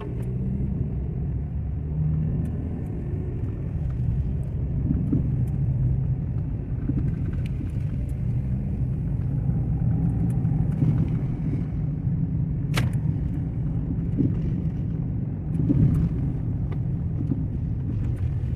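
Steady low rumble of a front-wheel-drive car's engine and tyres heard from inside the cabin, driving on a snowy, unplowed road, with scattered light clicks and one sharp click about two-thirds of the way through.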